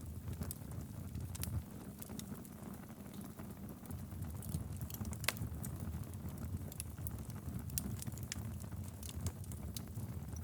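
Wood fire burning in a fireplace: a low steady rumble of the flames with irregular sharp crackles and pops from the logs, one stronger pop about halfway through.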